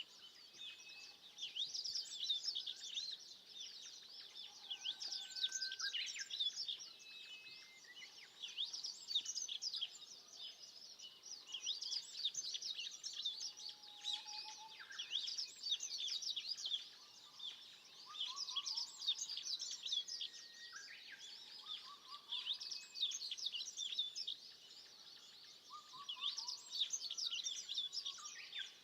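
Several wild birds singing at once: dense runs of quick, high chirps rise and fall in waves every couple of seconds, with scattered lower whistled notes from other birds in between.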